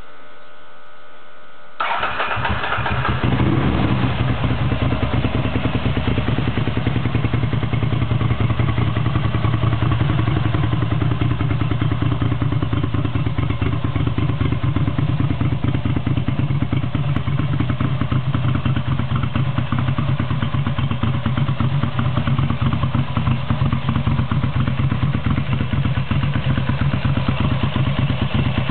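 Ducati motorcycle's air-cooled V-twin being cranked by its electric starter, catching about two seconds in, then idling steadily and loudly.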